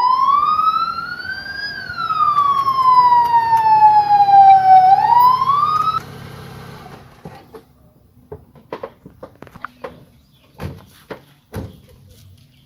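Police siren wailing: it rises in pitch, falls slowly, starts to rise again, then cuts off suddenly about six seconds in. Scattered light knocks and clicks follow.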